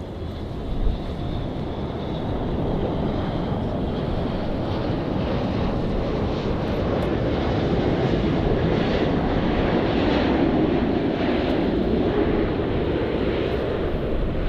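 Jet airliner engines passing close by, the roar swelling to its loudest about two-thirds of the way through and easing slightly near the end. A brief thump about a second in.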